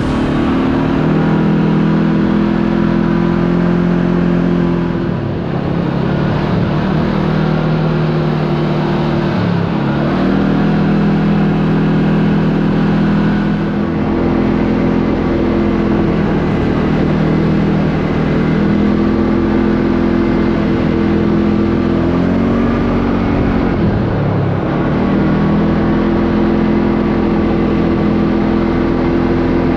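Kawasaki KRX 4 side-by-side's parallel-twin engine running at cruising speed over road noise. Its pitch sags and climbs back four times as the throttle is eased off and reapplied.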